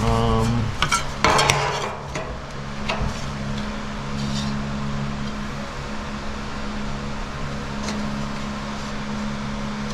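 Sheet-metal floor panel clanking and knocking as it is handled and test-fitted, with a cluster of knocks about a second in. A steady low hum follows.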